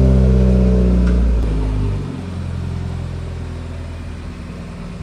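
Subaru WRX's turbocharged flat-four engine and exhaust running under way. It is loud and steady for about the first two seconds, then drops to a quieter, fast even pulsing that fades gradually.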